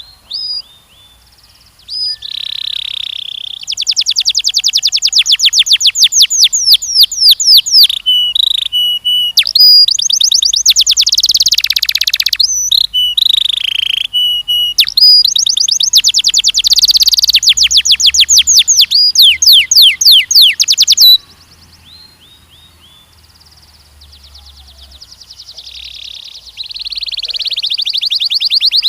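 Canary singing: long, loud runs of rapid trills made of repeated falling notes, broken by short pauses. It breaks off about two-thirds of the way through, then starts again softly and builds near the end.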